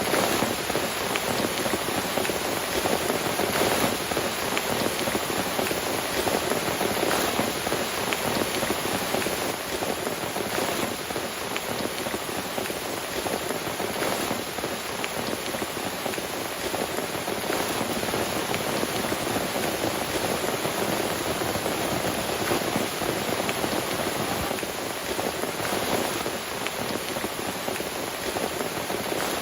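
Heavy rain falling steadily, a dense patter of drops hitting a surface without letup.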